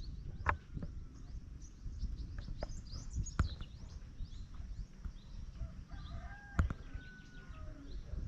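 Small birds chirping with many quick high calls and a few whistled notes, over a steady low rumble. Four sharp knocks break through, the loudest about six and a half seconds in.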